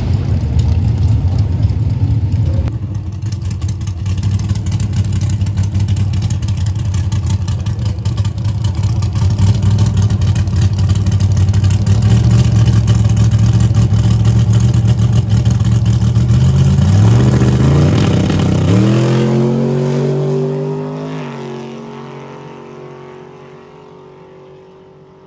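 Drag racing car engine running loud and steady, then climbing in pitch about two-thirds of the way through and fading away toward the end.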